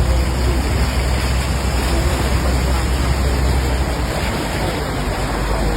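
Heavy rain pouring: a steady rushing noise with a low rumble underneath.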